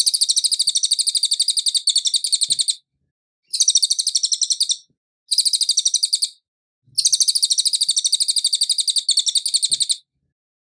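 Cililin singing: four bursts of a fast, high-pitched trill of rapidly repeated chirps. The bursts are separated by short pauses, and the first and last run about three seconds each.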